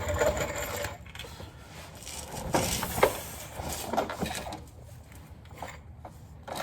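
Workshop handling noises from a truck transmission just dropped onto a jack: a rattly mechanical noise in the first second, then a few scattered metal knocks and clanks, the loudest about three seconds in.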